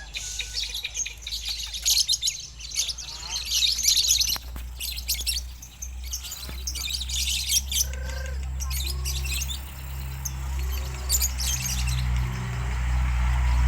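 Lovebird singing in long runs of rapid, high chirping trills that come in bursts, over a steady low background hum.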